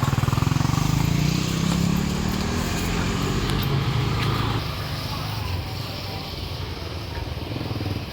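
Motorbike engine running, rising in pitch over the first couple of seconds, then easing off and growing quieter after about four and a half seconds.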